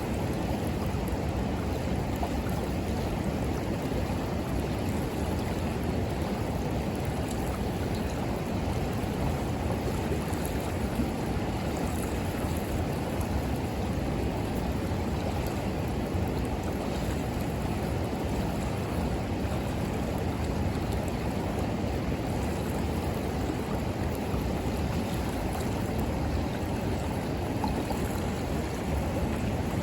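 River water flowing steadily, a constant rushing, with occasional faint crackles from a wood campfire.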